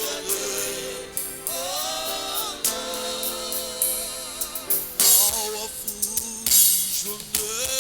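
Gospel worship music: singers with vibrato over sustained instrumental chords, with sharp drum or cymbal hits about five and six and a half seconds in.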